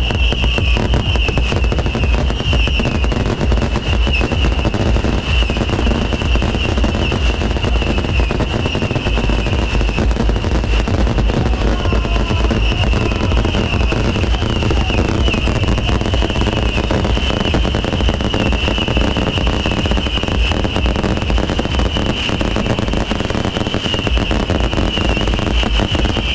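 Long string of firecrackers going off in a dense, unbroken crackle of rapid bangs, with a steady wavering high-pitched tone running through it.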